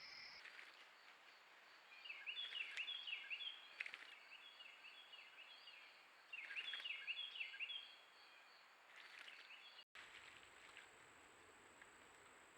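A bird calling in two quick series of repeated chirping notes, about two seconds in and again past six seconds, over faint outdoor background noise.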